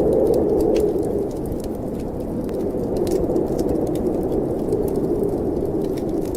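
Snowstorm wind blowing steadily, with the scattered small pops and crackles of a wood fire burning in a fireplace; the wind eases slightly about a second in.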